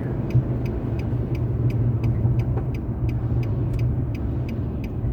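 Car driving, heard from inside the cabin: steady low road and engine rumble, with a light ticking about four times a second over it.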